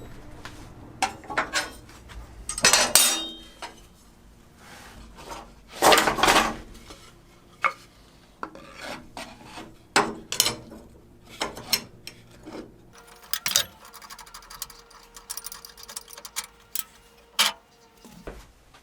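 Irregular hand rubbing and scraping on wood, with scattered knocks and clatters of handled parts.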